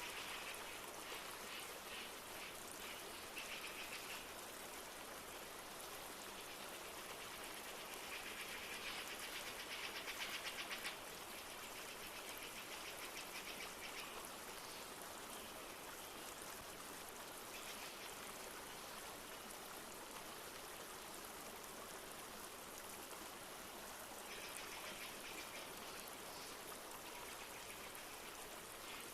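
Steady rush of a flowing river. Stretches of rapid, high-pitched trilling calls a few seconds long come and go over it.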